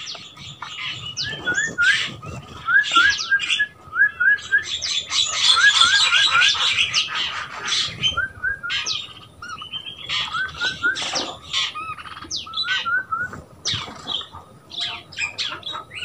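Several birds calling: a repeated run of short rising chirps in quick groups of three or four, over and under bursts of shrill chattering that is densest about five to seven seconds in.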